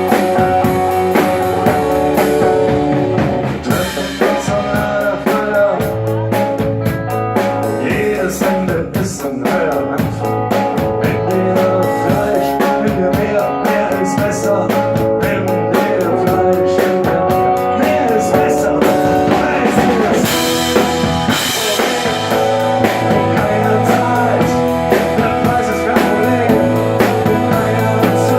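A band playing rock music: drum kit, guitar and singing.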